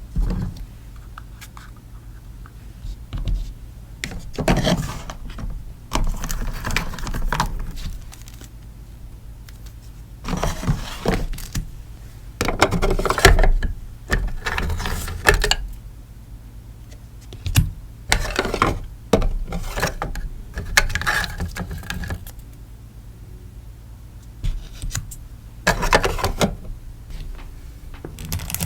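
Stickers and packaging being handled during order packing: irregular bursts of rustling and crinkling with small taps, separated by short pauses, over a steady low hum.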